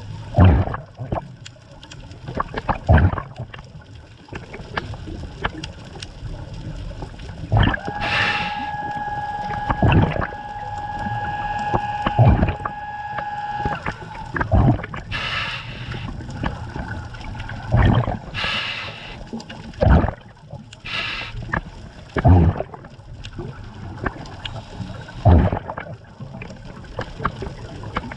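Scuba regulator breathing underwater, exhaled bubbles gurgling out in bursts every two to three seconds. A steady humming tone sounds for about six seconds in the middle.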